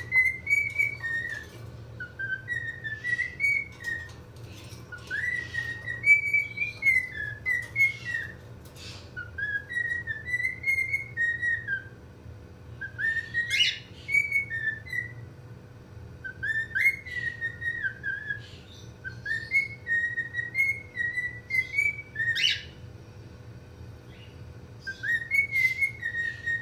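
Cockatiel whistling a phrased tune of short up-and-down notes, repeated several times with brief pauses between phrases. Twice a sharper call sweeps up in pitch. A faint steady hum lies underneath.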